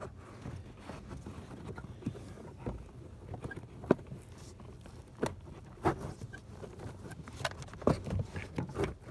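Scattered clicks, knocks and light scraping of plastic parts as a new cabin air filter is handled and pushed into its housing in a car, the sharpest knock about four seconds in.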